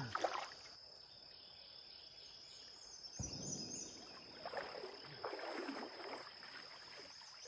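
Cicada chorus: one steady high-pitched drone, with a few short noisy swishes over it around the middle.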